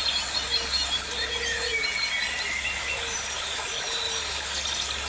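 Birds calling: a scatter of short, high whistled and chirped notes, several of them sliding in pitch.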